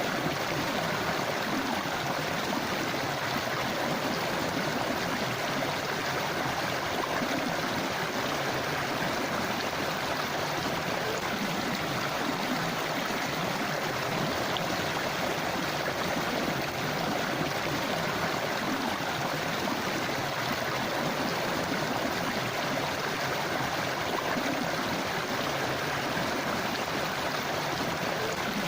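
A river or stream flowing, a steady rushing and babbling of water.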